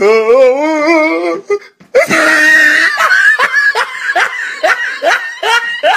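A person laughing hard: first a long wavering cry, then a run of quick ha-ha bursts.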